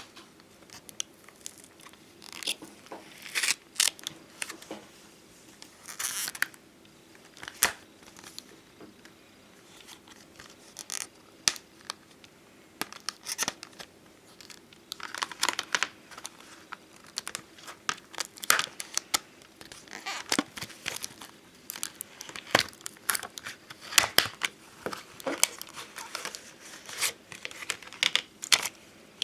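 Glossy puffy 'bonbon drop' and ohajiki-style stickers being handled: peeled from their backing sheet with crinkling and tearing-like rustles, and small sharp clicks and taps coming at irregular intervals.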